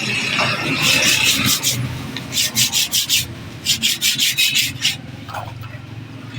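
Quick back-and-forth abrasive hand strokes, rubbing or scraping on a hard part, in three runs of about five or six strokes each with short pauses between.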